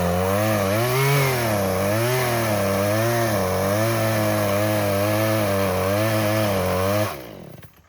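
Chainsaw engine running, its pitch rising and falling, then cutting out about seven seconds in and winding down to a stop: the saw has stalled, which the operator believes is from running out of gas.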